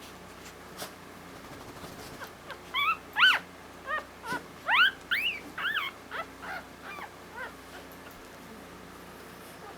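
Newborn Havanese puppy whimpering in a string of short, high-pitched squeaky cries, each rising then falling in pitch, for several seconds before it trails off.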